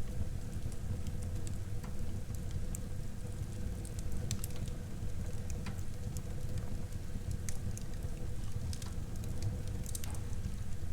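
Wood fire burning in a fireplace: a steady low rumble of flame with scattered sharp crackles and pops from the burning wood.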